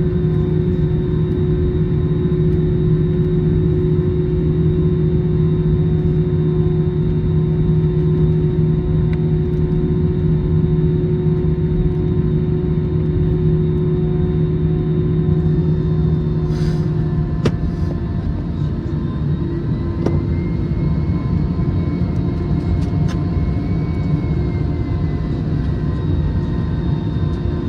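Steady cabin noise aboard an Airbus A321 on the ground after landing: a low engine hum over a broad rumble. About 17 seconds in, the strongest hum drops away with a couple of clicks, and a fainter whine continues.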